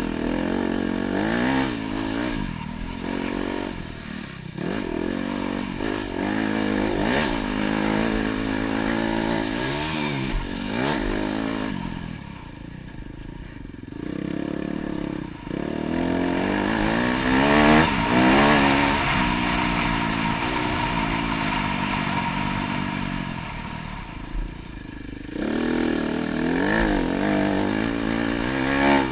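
Dirt bike engine running hard on a motocross track, its pitch rising and falling again and again with the throttle. It drops off twice, as the throttle closes, about halfway through and again near the end.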